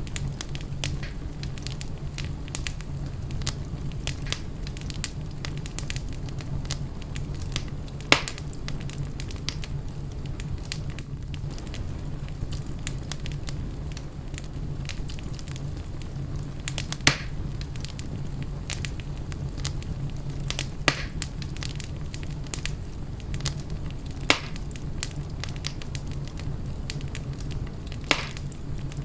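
Wood fire crackling in a fireplace under a steady low rumble, with many small crackles and a handful of sharp louder pops, the biggest about 8 and 17 seconds in.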